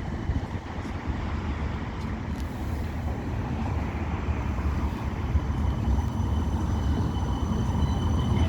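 West Midlands Metro tram running, a steady low rumble that slowly grows louder, with a thin high whine coming in over the last couple of seconds.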